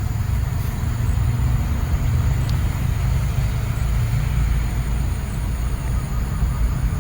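Wind buffeting the microphone, a steady low rumble that rises and falls unevenly, with a faint high steady drone above it.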